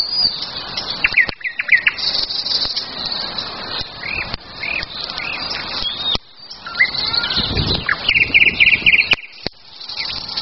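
Several songbirds singing and chirping, with a fast repeated trill about eight seconds in, over the occasional sharp pop of a burning campfire and a brief low rumble a little past halfway.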